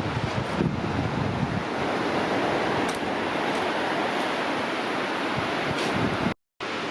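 Steady rush of ocean surf mixed with wind buffeting the microphone. The sound drops out briefly near the end.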